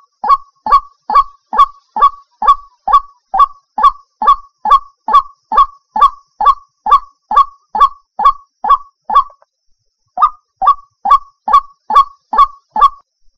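White-breasted waterhen (ruak-ruak) lure call: one short honking note repeated fast and evenly, about two a second. It breaks off for about a second some two-thirds of the way through, then starts again.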